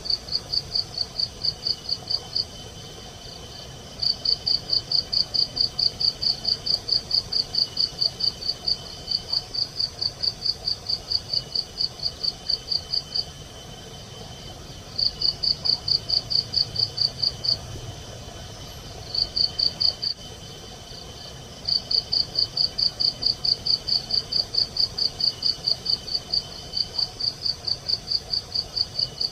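Cricket chirping in rapid even pulses, about four a second, in runs of a few seconds broken by short pauses, over a fainter steady high insect trill.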